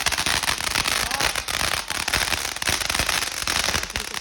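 Consumer firework crackling: a dense, continuous run of rapid small pops.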